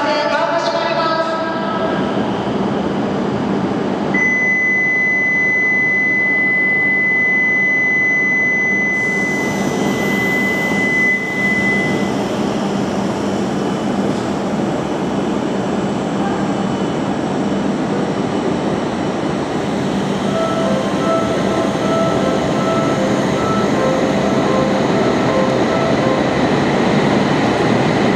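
Tohoku Shinkansen train running along the platform with a steady rushing noise. A steady high electronic tone sounds for about eight seconds in the first half, and a pulsing signal of several beeping tones comes near the end. A platform melody fades out in the opening second.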